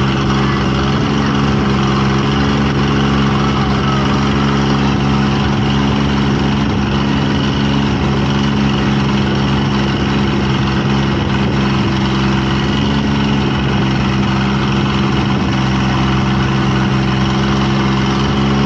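A combustion engine running steadily at constant speed, its low hum holding one pitch throughout.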